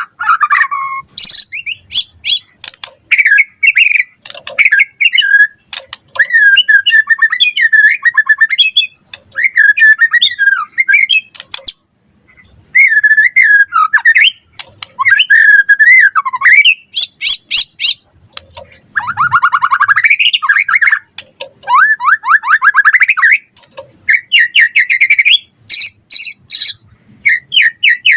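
White-rumped shama singing a long, varied song of loud whistled phrases, fast trills and sharp notes, broken by a couple of brief pauses.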